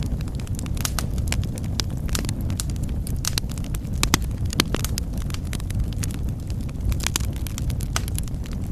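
Wood fire burning in a fireplace: a steady low roar of flames with frequent, irregular sharp crackles and pops.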